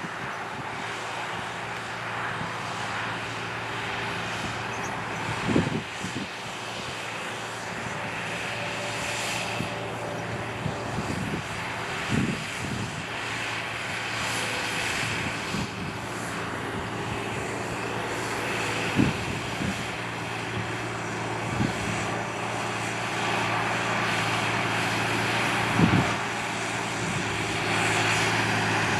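John Deere 8300 tractor's six-cylinder diesel engine running steadily under load while cultivating, slowly growing louder as it comes closer, with a few brief thumps.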